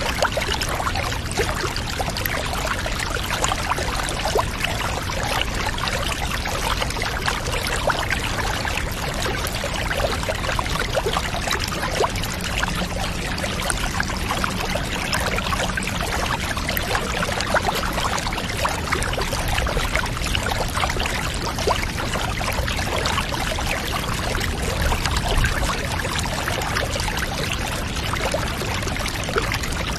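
Water pouring steadily into a bathtub: a constant splashing rush that does not let up.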